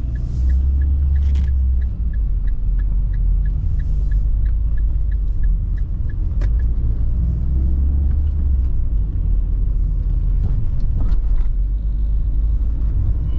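Car interior: steady low engine and road rumble while driving, with the turn-signal indicator ticking about three times a second for the first six seconds or so, then stopping.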